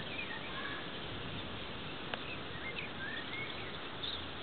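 Several short bird chirps, a few near the start and more about three seconds in, over a steady outdoor background hiss. There is a faint click about two seconds in.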